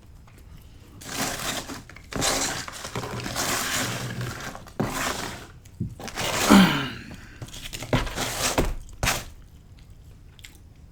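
Close-up mukbang eating sounds: biting and chewing pizza, with irregular crunches, crinkles and knocks as slices are handled, and a short falling hum about six and a half seconds in.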